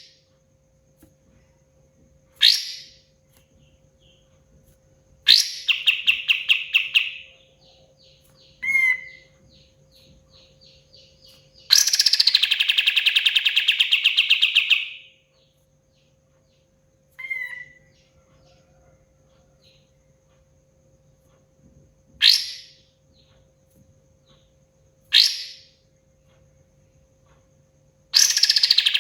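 Kapas tembak songbird singing in separate bursts: sharp single calls that sweep down in pitch, alternating with rapid rattling trills lasting a few seconds each. The longest trill comes about twelve seconds in, and another starts near the end.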